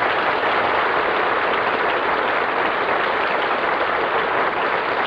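Studio audience applauding steadily after a song ends.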